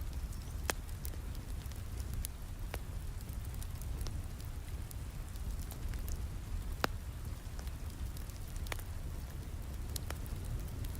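Steady rain with a low rumble, mixed with a wood fire crackling in a fireplace: irregular sharp pops every second or two, the loudest about two-thirds of the way through.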